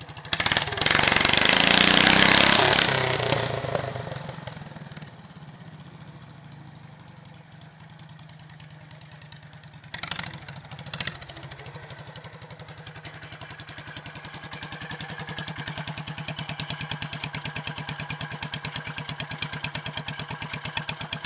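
Cub Cadet garden pulling tractor's Kohler 16 hp single-cylinder engine revving hard for about three seconds, then dropping to a quieter steady run. Two sharp knocks come about ten and eleven seconds in, and the engine's rapid, even firing grows louder toward the end.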